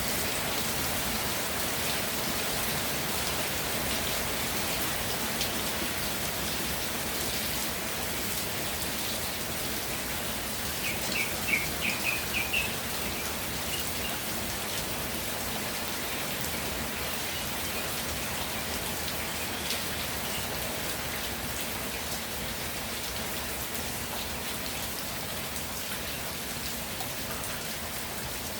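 Steady rainfall pattering on the ground and surfaces. About a third of the way in, a brief run of six or seven high chirps rises above it.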